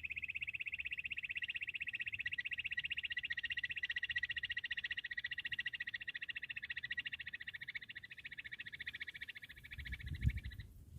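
Bush quail call: a rapid, even trill at one high pitch that goes on without a break and stops abruptly near the end, followed by a low thump.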